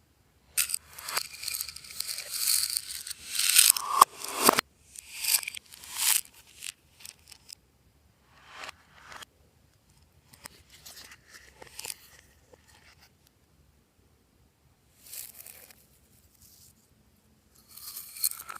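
Slime being squished and stretched by hand, giving bursts of crackly, sticky popping and crinkling. The loudest stretch runs for the first four seconds or so, followed by short bursts and scattered crackles, a near-quiet pause about two-thirds of the way through, then a fresh burst near the end.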